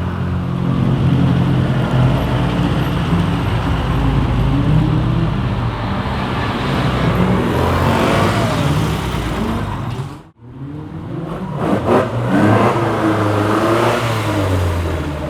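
Rally cars' engines revving hard under acceleration at full speed, with the pitch rising and falling. About ten seconds in the sound cuts off abruptly, then another car's engine comes in, its pitch rising and falling.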